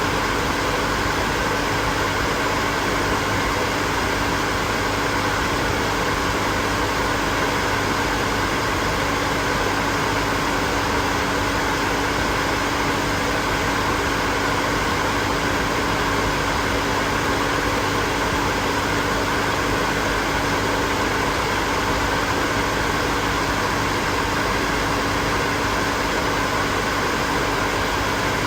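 Hair dryer running continuously: a steady whoosh of blown air with a constant motor hum.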